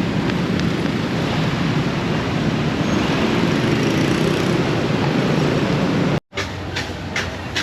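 Steady rumble of city street traffic that cuts off suddenly about six seconds in. A quieter stretch follows, with regular light ticks about three a second.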